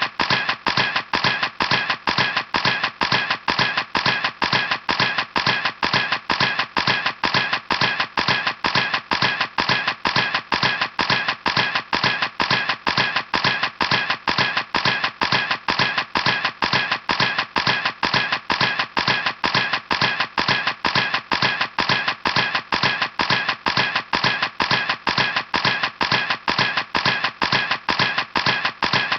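Camera shutter clicks repeating in a steady, evenly spaced sequence, several a second, as in continuous burst shooting.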